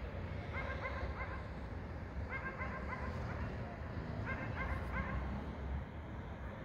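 A dog barking in quick runs of three or four short barks, a run about every two seconds, over a low steady rumble of city night ambience.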